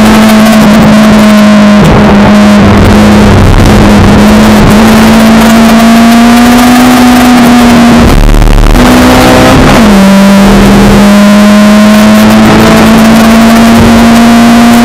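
Honda Civic Type R EP3's K20A2 inline-four engine, with an aftermarket exhaust, heard loud from inside the cabin while driven hard on track. The engine note climbs slowly, breaks off briefly near the middle, then drops and climbs again, as on an upshift.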